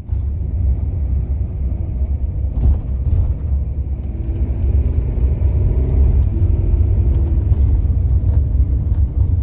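Loud, steady low rumble with a few faint clicks over it.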